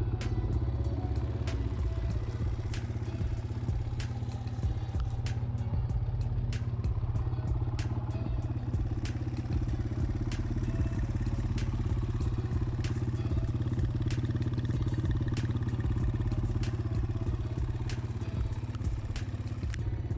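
Kawasaki KLX140L's single-cylinder four-stroke engine running at a steady speed, with frequent sharp clicks over it.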